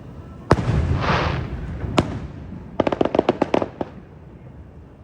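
Aerial fireworks going off: a loud boom about half a second in followed by a hissing crackle, a second boom about two seconds in, then a rapid string of about ten sharp pops.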